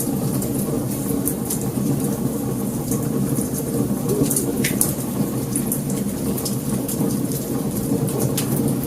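Wood fire crackling: frequent sharp pops and snaps over a steady low roar of burning.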